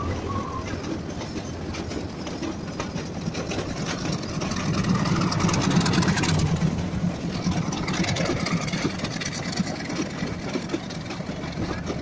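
Passenger train rolling by below with its diesel locomotive's engine running; the engine hum grows louder about five to seven seconds in as the locomotive passes underneath.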